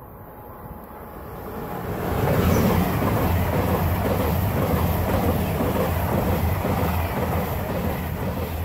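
ICE high-speed electric train passing at speed. The rumble and rush of its wheels on the track build over the first two seconds, stay loud while the cars go by, and begin to fade near the end.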